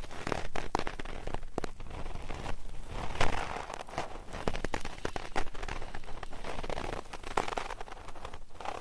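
Close-miked ASMR trigger sounds: a dense, irregular crackling and scratching made of many sharp clicks, like rubbing or ear-cleaning tools working right against the microphone.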